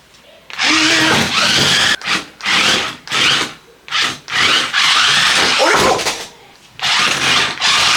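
Toy RC stunt car's small electric drive motors whirring in a string of short bursts as the car is driven back and forth, its wheels spinning, with a rising whine about halfway through.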